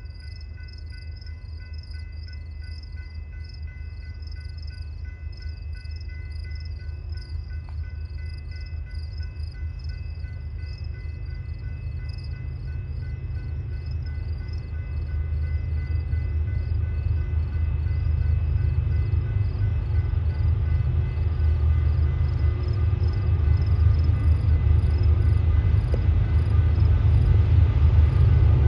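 Three diesel locomotives hauling a freight train, working under load as it pulls away from a stop and approaches; their low engine rumble grows steadily louder throughout. Insects chirp in a fast, even pulse underneath, fading as the train gets louder.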